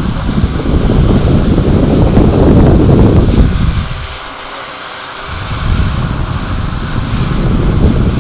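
High wind in a thunderstorm buffeting the microphone in heavy rumbling gusts over steady rain hiss. The gusts ease for about a second in the middle, then build again.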